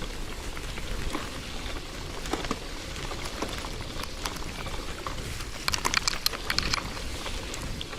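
Old KhVZ bicycle rolling over wet ground: steady tyre hiss with scattered crackles and clicks, and a quick flurry of sharp clicks about six seconds in.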